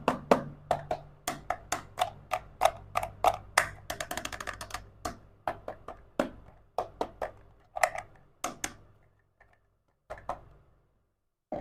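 Sharp clicks and taps of small hard miniature toy-kitchen pieces being handled and set down, a few a second. A quick clattering run comes about four seconds in, and the clicks thin out near the end.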